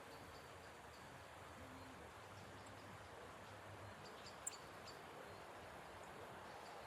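Near silence: faint outdoor background hiss, with a few faint high chirps around the middle and one short sharp tick about four and a half seconds in.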